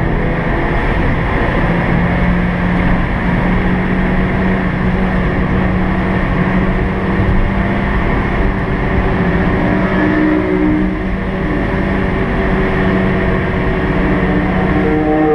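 Small Suzuki hatchback's engine running hard at steady revs, heard from inside the cabin over loud tyre and wind noise.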